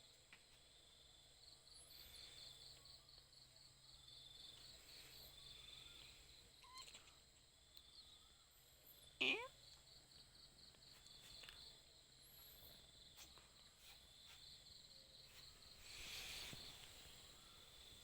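Insects chirping in repeated trains of rapid high pulses over a faint steady high hum. About nine seconds in there is a single short, loud call that glides up in pitch, and near the end a soft rush of noise swells and fades.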